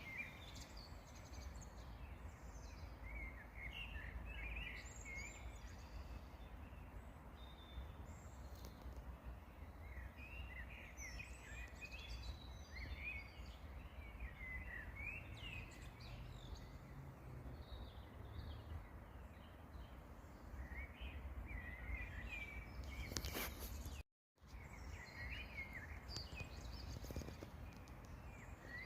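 Several songbirds singing and chirping in short, overlapping phrases over a steady low background rumble. About three-quarters of the way through there is a click and a moment of complete silence, like an edit cut.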